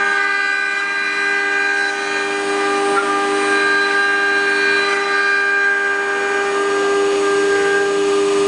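4-axis CNC wood router's spindle running at speed, a steady high whine of several held tones.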